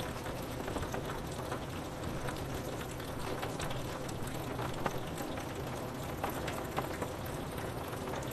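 Steady rain falling on a window pane, with scattered single drops ticking against the glass over a low steady rumble.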